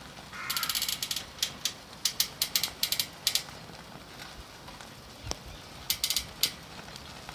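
Koinobori (carp streamer) pole creaking in strong wind. Sharp creaks and squeaks come in bursts: a rapid run about half a second in, a string of single creaks over the next few seconds, and another short cluster near the end.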